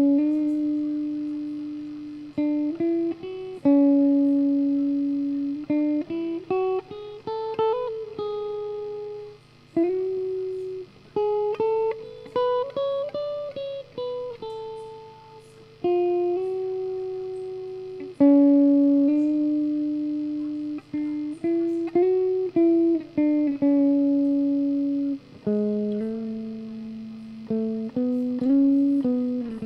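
Solo guitar playing a slow single-note melody. Each note is plucked and left to ring out, and the player slides and bends between many of them.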